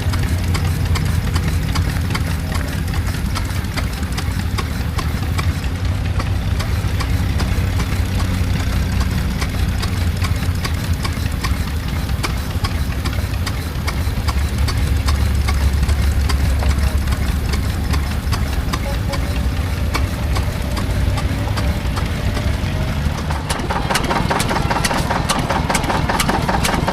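Engine running steadily at idle with a rapid, even beat. Near the end the sound changes, with more clatter higher up.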